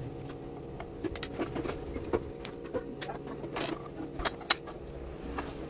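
Plastic building bricks clicking and rattling as they are handled and pressed together, a dozen or so irregular sharp clicks over a steady low hum.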